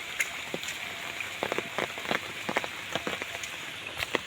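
Rain falling, a steady hiss with irregular drops tapping close by.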